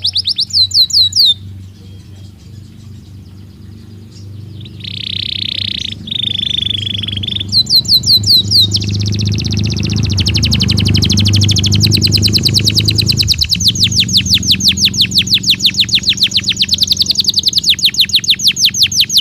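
Belgian canary singing: a fast trill of rapidly repeated high notes, a short pause, two buzzy notes, then one long, fast trill.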